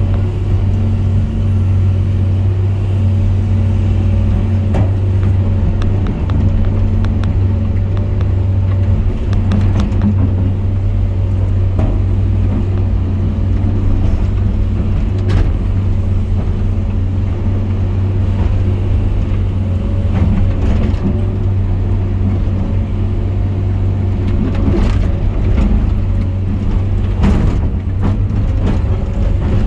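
Heavy loader's diesel engine running steadily at working load, with a few scattered knocks as the bucket works the muck pile.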